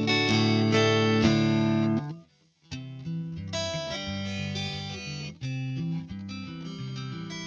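Electric guitar played through the Neural DSP Mesa Boogie Mark IIC+ amp-modelling plugin: a loud held chord for about two seconds, a brief stop, then a run of quieter chords and single notes.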